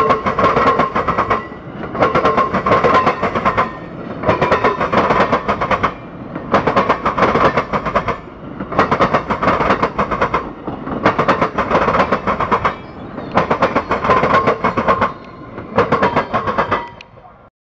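Amtrak passenger train's cars rolling over a railroad diamond crossing. There is a burst of wheel clatter about every two seconds as each car's wheels cross the gaps in the rails, over a steady rumble with a ringing tone. It cuts off just before the end.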